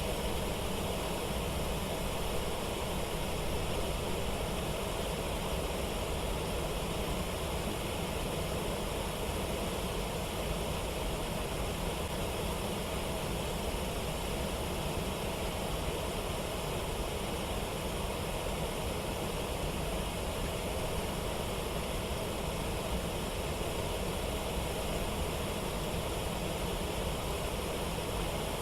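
Steady rush of a waterfall and fast river water, an even, unchanging noise with no distinct events.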